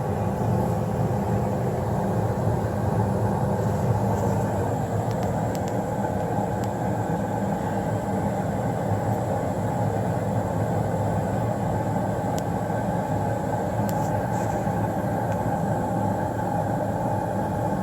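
Newly installed 90% high-efficiency gas furnace running in heat mode: the blower and burners going together as a steady rush of air with a low hum.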